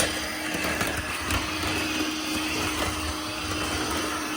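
Plug-in electric vacuum cleaner running steadily, its motor giving a steady hum, with a couple of light knocks in the first second and a half.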